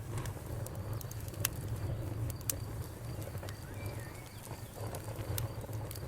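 Campfire crackling, with scattered sharp pops over a steady low rumble. A brief faint bird chirp comes about four seconds in.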